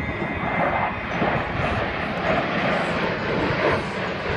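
Fixed-wing aircraft flying past: a steady, loud wash of engine noise.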